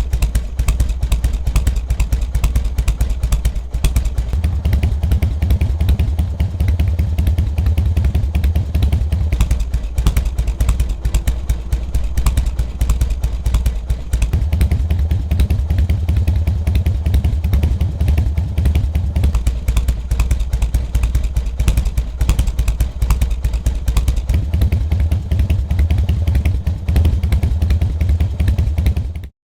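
Harley-Davidson Softail Standard's Twin Cam V-twin running through an aftermarket muffler, with a steady, lumpy low exhaust rumble at idle. The rumble swells fuller three times for several seconds each.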